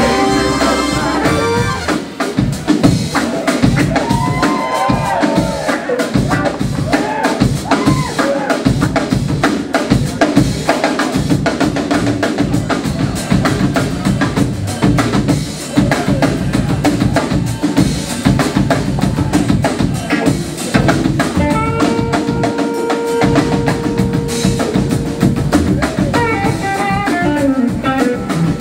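Live rock-blues band playing, with the drum kit to the fore: a busy, driving pattern of snare, rimshots and bass drum. Pitched lines bend and glide over the drums, and one note is held for a couple of seconds about three-quarters of the way through.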